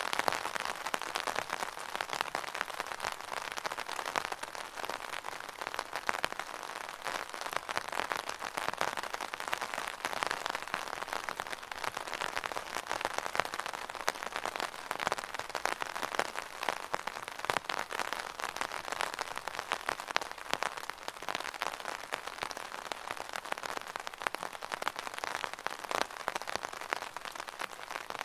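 Rain falling on an umbrella: a dense, steady mass of small drop hits.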